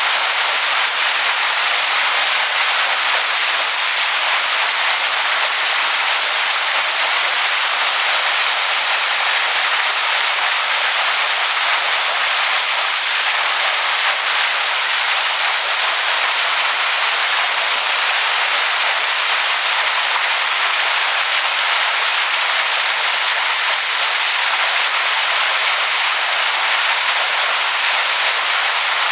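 Waterfall splashing onto stones: a steady, unbroken rush of water, mostly hiss with little deep rumble.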